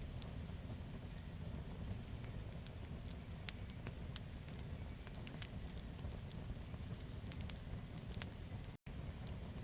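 Campfire burning, with irregular sharp crackles and pops of the wood over a steady low rumble of the flames. The sound cuts out for an instant near the end.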